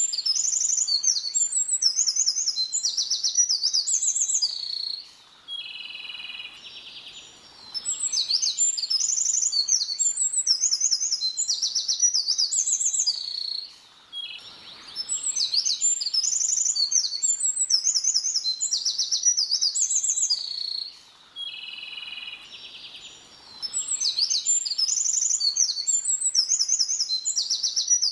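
A small songbird singing long, rapid, complex songs of high whistles and trills, each bout about five seconds long, with a shorter, quieter buzzy trill in the gaps between. The same song recurs about every eight and a half seconds.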